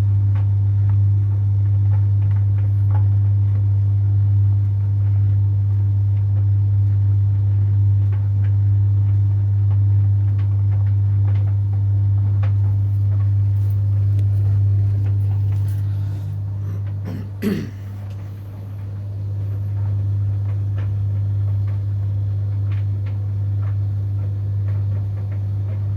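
Samsung DV80M5010IW heat pump tumble dryer running: a loud, steady deep hum from the machine with the drum turning. A brief vocal sound, like a cough, about two-thirds of the way in.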